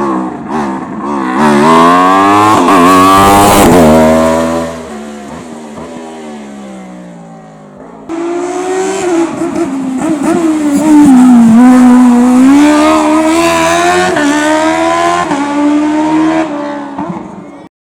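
Race car engines on a slalom course: one car revving hard through a run of quick rises and falls in pitch and fading away, then, after an abrupt cut about eight seconds in, another car revving up and down through the gates. The sound cuts off suddenly near the end.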